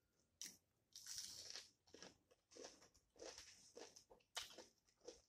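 Faint close-up eating sounds: a person biting and chewing a piece of food, in short, irregular crunches a few times a second.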